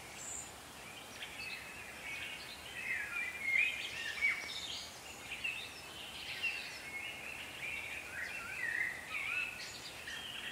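Small birds chirping and warbling in quick, varied phrases over a faint, steady hiss.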